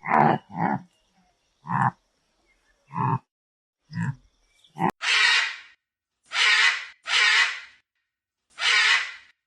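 An animal calling in separate bursts: several short, low calls, then four longer, noisier calls about a second apart.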